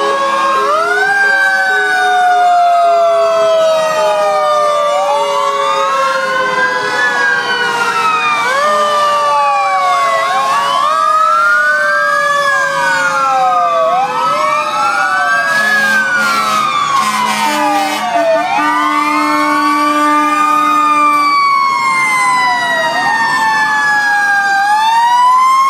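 Several fire truck sirens wailing at once, their pitches rising and falling every couple of seconds and overlapping, with one siren's pitch slowly sinking. Low steady horn blasts sound about two-thirds of the way through.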